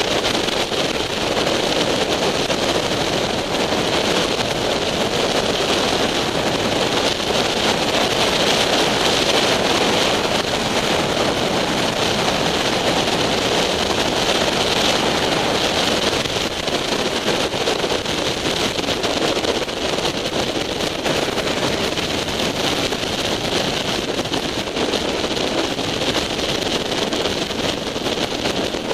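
Sportbike riding at highway speed, heard from an onboard camera: steady wind rush over the microphone with the motorcycle's engine and road noise beneath.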